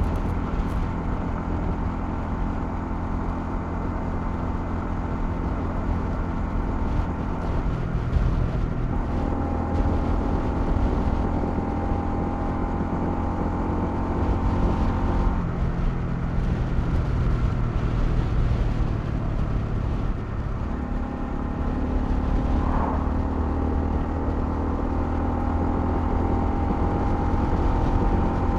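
Honda CL250's single-cylinder engine running while riding, its note shifting in pitch a few times, at about 8, 15 and 21 seconds in, over a steady low rush of wind and road noise.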